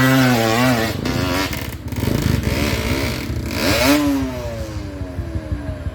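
Dirt bike engine revving in repeated surges during an uphill climb attempt. The revs fall away steadily near the end.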